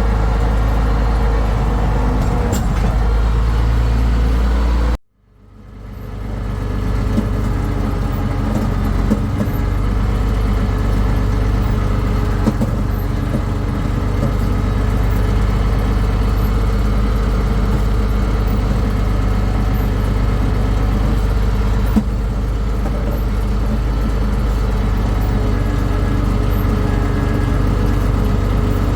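Farm tractor engine running steadily with a low drone. The sound cuts out abruptly about five seconds in and fades back up over a second or two, then runs on unchanged.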